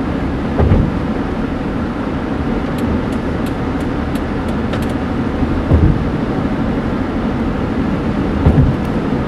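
Steady road and engine noise inside a moving car's cabin at speed, with three short low thumps: about half a second in, near six seconds and near the end.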